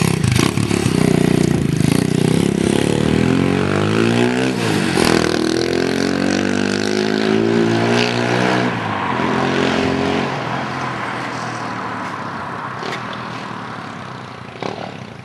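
Monkey bike's small engine running close and revving, its pitch dipping and climbing in the middle, then fading steadily as the bike pulls away.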